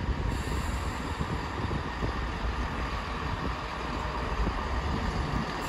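Class 165 Networker Turbo diesel multiple unit running at the station, a steady rumble with no horn or sharp events.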